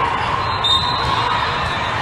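Steady hubbub of a crowd in a gym during an indoor youth match, with ball and court sounds and a brief high squeak about half a second in.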